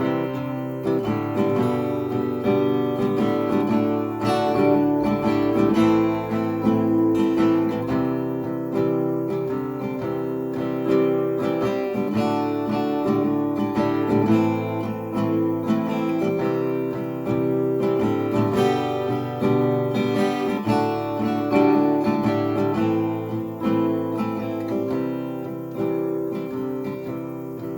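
Acoustic guitar strummed in steady chords, an instrumental break in the song without singing.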